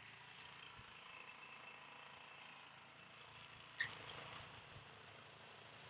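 Near silence: a faint steady hum, with a single brief click about four seconds in.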